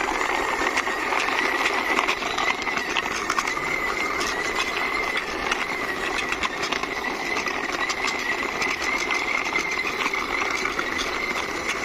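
Plastic toy cover van's wheels rolling as it is pushed along by hand: a steady rolling rattle with a thin high whine and many small clicks.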